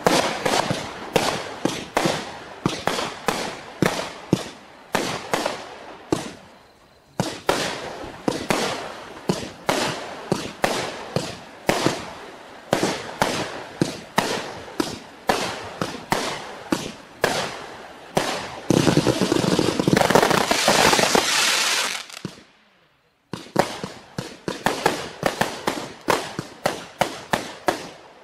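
Multi-shot fireworks cake firing a rapid string of sharp shots and bursts, several a second. About 7 s in there is a short lull. From about 19 s a dense, continuous volley runs for around three seconds, then after a brief gap the quick shots resume.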